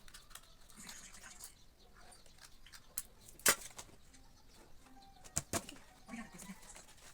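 Scattered light clicks and rustling from small craft pieces being handled and fitted together, with one sharper click about halfway through and two close together a couple of seconds later.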